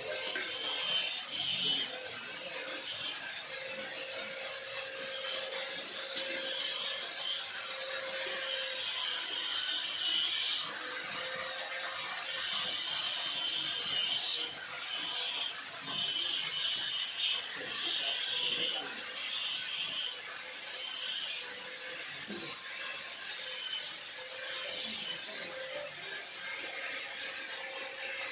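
A power tool or workshop machine running continuously: a steady high-pitched whine over a rushing hiss, with a slight dip in pitch about ten seconds in.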